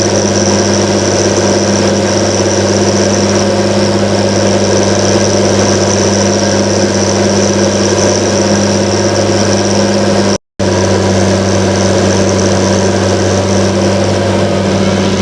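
John Deere 7920's 8.1-litre six-cylinder turbo-diesel running steadily at constant speed, with a steady high whine over the engine note. The sound drops out for a split second about ten seconds in.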